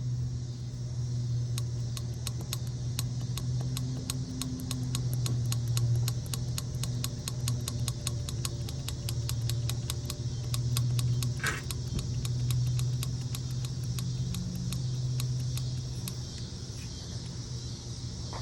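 Car engine idling steadily with a rapid, even ticking of about five clicks a second that sounds like lifter tick but does not come from the valve lifters. The ticking stops near the end while the engine keeps running.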